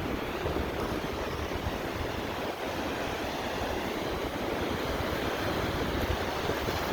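Wind buffeting the microphone in gusts over the steady wash of Lake Michigan waves on the shore.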